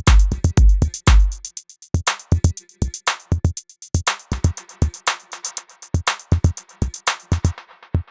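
Electronic background music with a fast drum-machine beat and heavy bass, thinning out to sparser drum hits after about a second and a half, then stopping abruptly.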